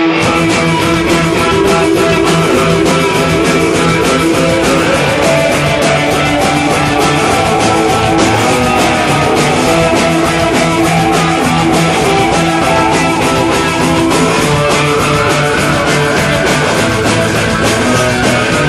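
Rock band playing a song live, guitars to the fore over a steady beat.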